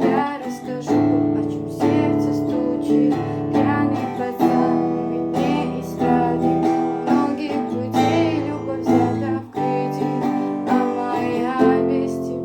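Acoustic guitar strummed, playing chords of a pop song with the chord changing every couple of seconds.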